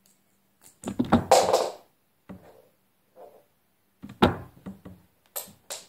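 A few knocks and thuds with handling noise: a cluster about a second in, one sharp knock about four seconds in, and light clicks near the end.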